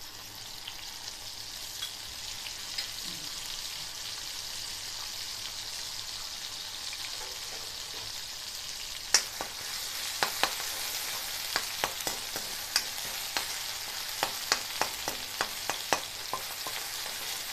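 Ginger-garlic paste sizzling in hot oil in a kadhai as it is sautéed to cook off its raw smell. From about nine seconds in, a spoon repeatedly clicks and scrapes against the pan over the steady sizzle.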